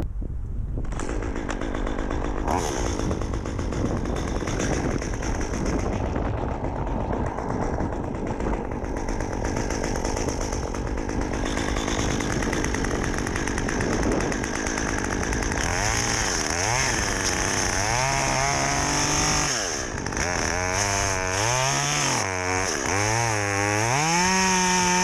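Two-stroke chainsaw running high in a tree. For the last ten seconds or so its engine is revved up and down again and again.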